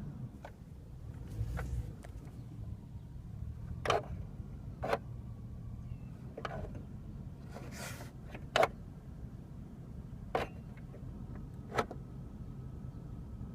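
Chevrolet Silverado pickup engine idling with a steady low hum, with sharp clicks at irregular intervals, several seconds apart.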